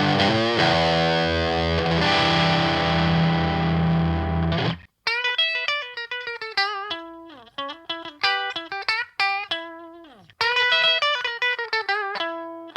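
Electric guitar played through an Aion FX Corona overdrive pedal, a copy of the Boss OD-1: about five seconds of sustained, distorted chords that stop abruptly, then picked single-note phrases with a thinner, lighter tone.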